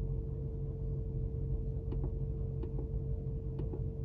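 A few faint clicks from the Mercedes-Benz G63's infotainment controls as the menus are stepped through, heard over a steady low cabin hum.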